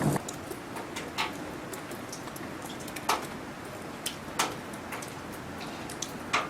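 Graupel pellets ticking as they strike, a sharp tick every second or so, over a steady hiss of falling precipitation. The tail of a thunder rumble cuts off at the very start.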